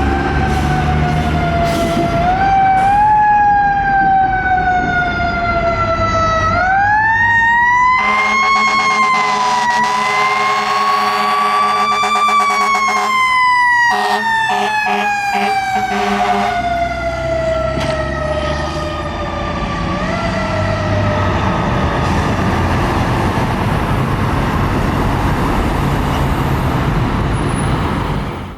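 A fire engine's mechanical Federal Q siren winding up and slowly coasting down in pitch as the truck passes. For several seconds in the middle, air horns blare in repeated blasts over the siren. A diesel engine rumbles underneath.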